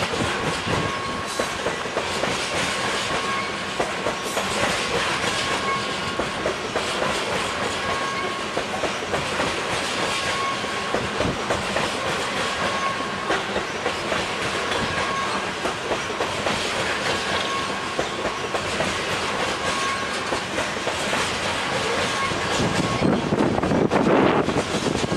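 Loaded coal train rolling past at close range: steady rumble of steel wheels on the rails with clickety-clack over the rail joints. A thin, steady high ring comes and goes, and the sound swells a little near the end.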